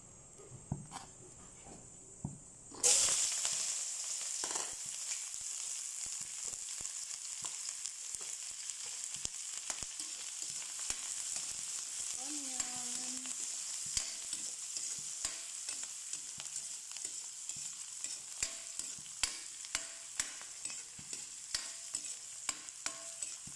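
Chopped onions hit hot oil in a steel wok about three seconds in and start sizzling at once, then fry with a steady sizzle while a metal ladle scrapes and clinks against the wok as they are stirred. The clinks come at a regular pace from about halfway through.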